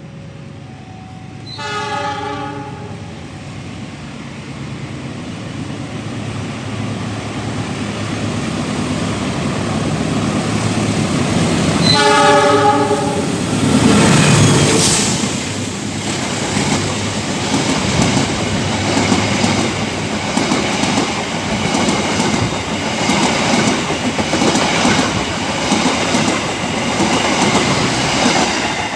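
Passenger train approaching with its locomotive sounding two horn blasts, one near the start and a louder one about twelve seconds in. Then it passes close by, with a rush as the locomotive goes past and a steady rhythmic clickety-clack of the carriages' wheels over the rail joints.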